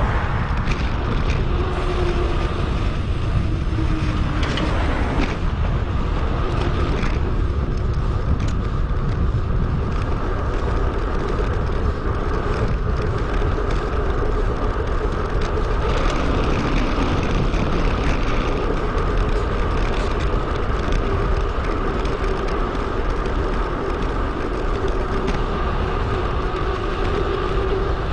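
Steady wind rush and road noise on a bicycle-mounted action camera's microphone while riding, with a faint hum running through it.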